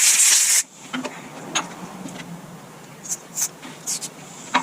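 A loud hissing blast of spray lasting about half a second, used to clean a small Briggs & Stratton engine's carburetor, followed by a few light clicks and taps of hand work on the parts.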